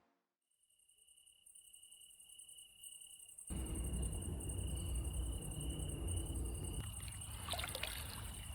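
Night insects trilling steadily, one high even tone over a fainter, higher hiss. A low rumble comes in suddenly about three and a half seconds in and carries on beneath them.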